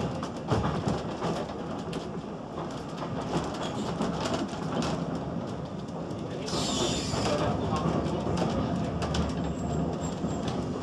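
GWR steam railmotor carriage running along the track, heard from its driving cab: a steady rumble of the wheels with knocks and clatter over the rail joints and points. A brief hiss comes about six and a half seconds in.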